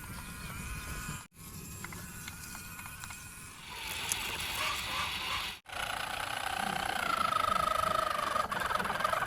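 Small toy motors and plastic gears whirring and clicking, in short clips cut together. Over the last few seconds a louder steady motor whine drifts slightly in pitch.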